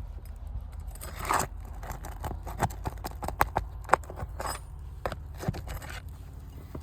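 Scraping and sharp clicks of work on brittle asphalt roof shingles, prying under them to get a nail out, with a longer scrape about a second and a half in. The shingles are brittle and tear as they are worked.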